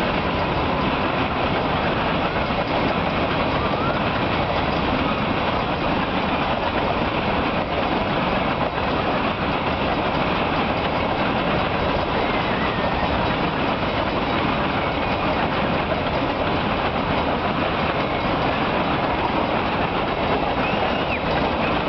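Freight train of covered hopper cars rolling past at speed: a steady, unbroken rumble of wheels on rail.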